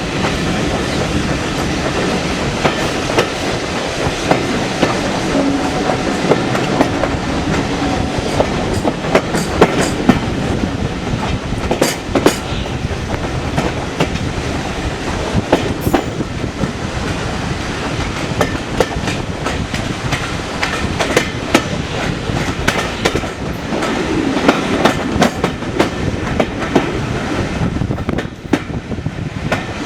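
Heritage railway train running along the line, a steady loud rumble with wheels clicking and clattering over the rail joints.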